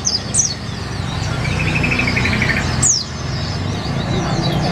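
Sunbird singing: sharp high chirps that slide steeply down in pitch, with a rapid trill about a second and a half in. A steady low rumble runs underneath.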